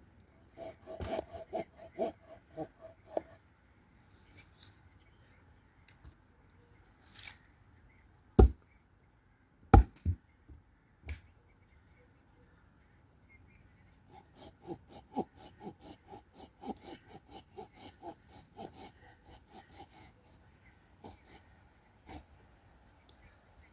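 Wood being sawn by hand in two runs of quick, short strokes, with a few heavy knocks of wood in between.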